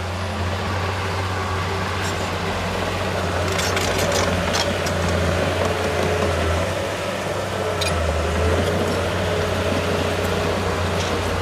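Heavy diesel engine of earthmoving machinery running steadily, with a few short metallic clanks around four, eight and eleven seconds in.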